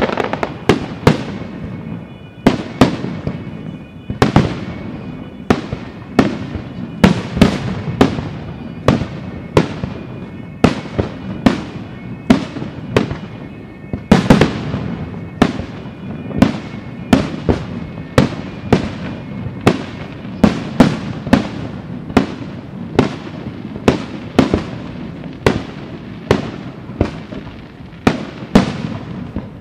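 Aerial firework shells bursting in rapid succession, about one or two sharp bangs a second, each trailing off in an echo.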